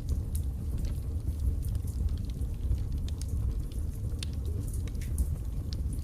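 Wood fire burning in a fireplace: a steady low-pitched rush of flame under irregular sharp crackles and pops from the burning logs.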